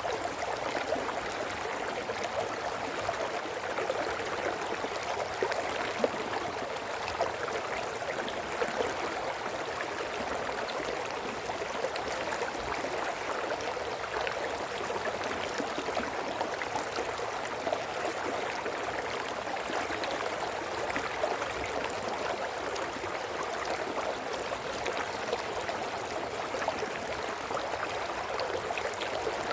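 A brook running steadily over rocks, a continuous splashing, gurgling babble.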